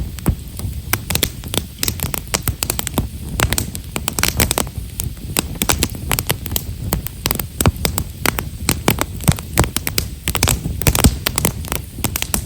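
Campfire of split Himeshara (Japanese stewartia) firewood burning, with many small, quick crackles and pops over a steady low rumble of the flames.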